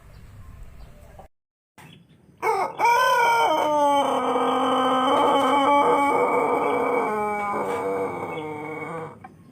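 A Pelung rooster giving one long crow of about seven seconds, starting about two seconds in: it rises at the start, holds a steady note, then steps lower and trails off near the end.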